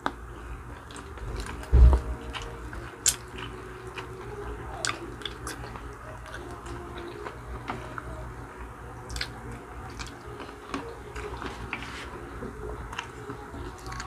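Close-up mouth sounds of people biting and chewing spicy chicken feet adobo: many small clicks and smacks scattered throughout, over a low steady hum. A dull thump about two seconds in is the loudest sound.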